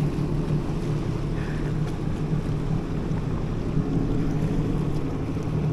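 Jet ski engine running steadily, with wind noise on the microphone.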